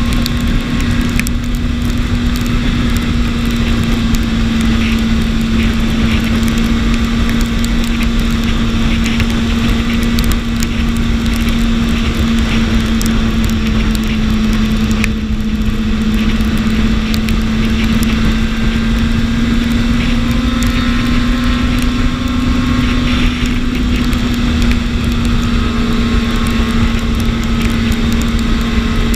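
BMW S1000RR's inline-four engine running at a steady cruise, its pitch holding nearly constant, over heavy wind rush on the microphone.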